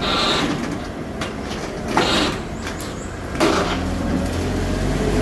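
Pallets of steel being loaded onto a lorry trailer, with three short scraping, hissing noises, then a low engine rumble building toward the end.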